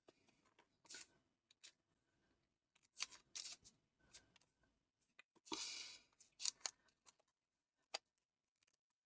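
Paper squares being folded and creased by hand: a few short, faint rustles and crinkles, a longer rustle a little past the middle, and a brief click near the end.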